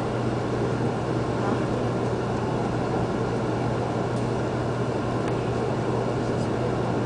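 Steady running noise of a Shinkansen train, heard from inside the passenger car, with a constant low hum under it.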